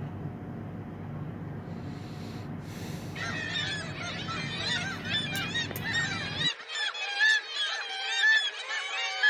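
A low steady rumble, then from about three seconds in a colony of gulls calling all at once, many overlapping squawks and cries.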